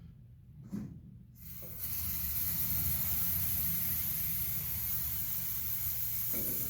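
Aerosol can of ether starting fluid spraying: one long steady hiss of about five seconds, starting about a second and a half in, until the can runs empty.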